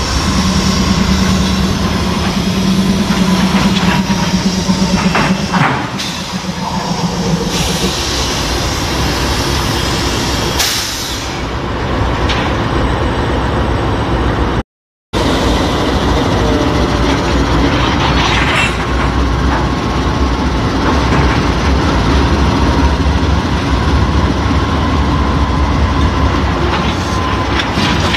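CSX freight train's diesel locomotives passing slowly, a steady rumble of engines and wheels on the rails, with a low engine drone for the first few seconds.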